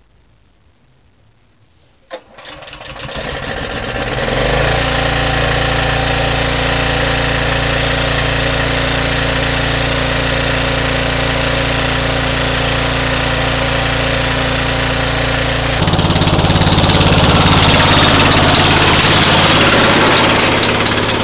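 Briggs & Stratton 14.5 hp OHV engine on a garden tractor starting from cold after sitting for years: it catches about two seconds in and builds up to a steady run within a couple of seconds. About sixteen seconds in it changes to a louder, different running speed.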